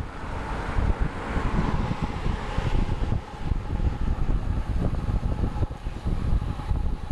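Wind buffeting the microphone of a camera riding along on a road bike, a rough, gusty rumble. A rushing hiss swells over the first few seconds and then fades.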